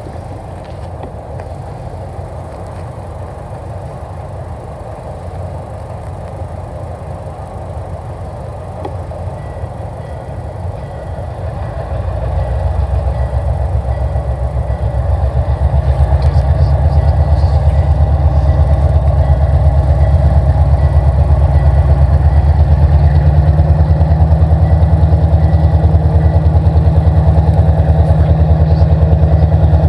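Approaching train's locomotive engine: a low rumble that swells about twelve seconds in, grows louder again a few seconds later, then holds steady and loud as the train draws near.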